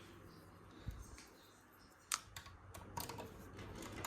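Small plastic LEGO pieces clicking as they are handled and fitted together: a few scattered faint clicks.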